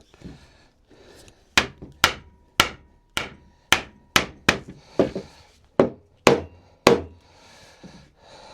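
About eleven sharp blows on wood, roughly two a second, knocking a wooden gate rail down onto its spindles during a dry fit of the joints.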